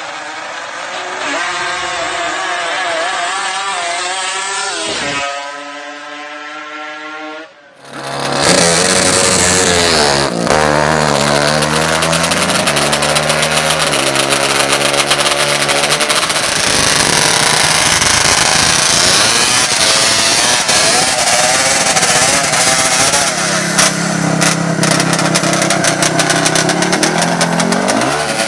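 Racing ATV engines revving, the pitch climbing and falling through the revs. The sound is muffled at first and drops away briefly, then comes back louder and clearer, with the engine pitch rising in steps.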